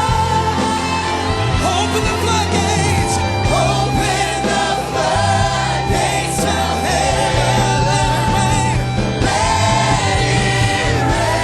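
Live gospel worship music: a choir singing over a band with steady sustained bass notes.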